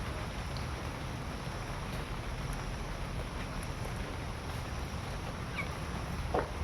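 Steady rushing wind noise on the microphone, with a few faint short high ticks and one brief louder sound near the end.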